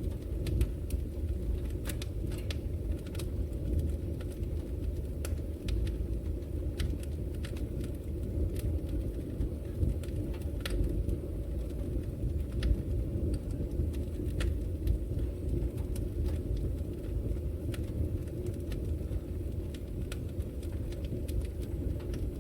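Wood fire burning in a fireplace: a steady low roar with irregular sharp crackles and pops from the burning logs, a few a second.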